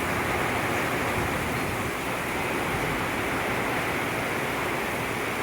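Heavy thunderstorm rain coming down hard in a steady downpour.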